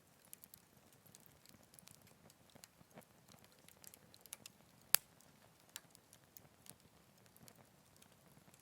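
Wood fire crackling softly, with scattered small snaps and one sharp pop about five seconds in.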